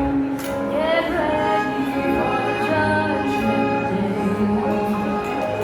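Live singing over instrumental accompaniment, with long held, wavering notes.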